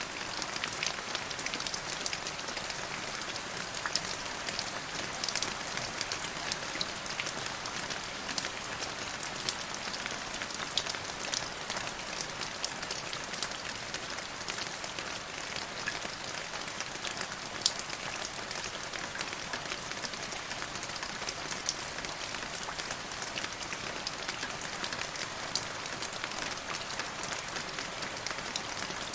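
Steady rain falling, with a dense patter of individual drops striking surfaces.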